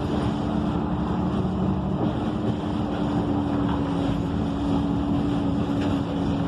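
Transit bus under way, heard from inside the cabin: its Cummins Westport ISL G natural-gas engine and Allison B300R automatic drivetrain run with a steady whine that drifts slightly lower, over road noise.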